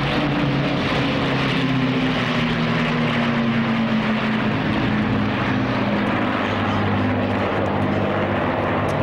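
Piston-engined propeller aircraft flying past: a loud, steady engine drone whose pitch falls slowly as it passes.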